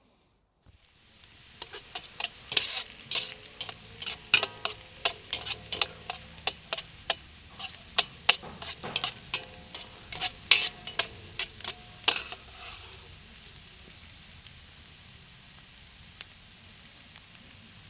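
Meat sizzling in a hot pan, with a metal utensil stirring and scraping against the pan about twice a second. The stirring stops about two-thirds of the way through and the steady sizzle carries on alone.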